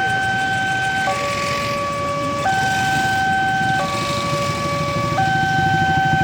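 Railway level-crossing warning alarm sounding its two-tone signal, switching between a high and a low tone about every 1.3 seconds, the warning that a train is approaching. Beneath it a low rumble grows louder and takes on a rapid pulsing near the end.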